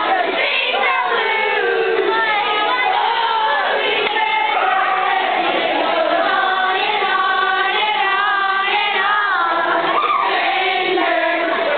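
A group of young voices singing or chanting together, many pitches overlapping continuously.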